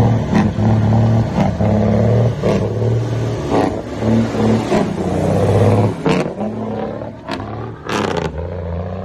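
Truck engine running hard at a steady high pitch, the note breaking off and coming back several times. About six seconds in it eases off and falls away, and a short, sharp burst of noise follows near the end.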